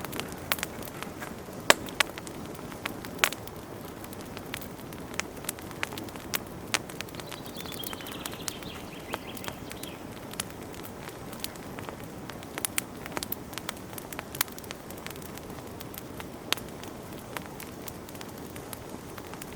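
Wood fire burning in a fireplace: irregular sharp crackles and pops over a steady low rush of flame, with the loudest pops about two and three seconds in.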